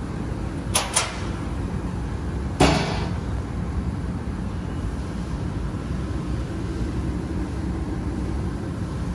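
Two light clicks and then a louder clunk, like a latch and a metal cabinet door being worked on the laser welding machine's housing, over a steady low hum.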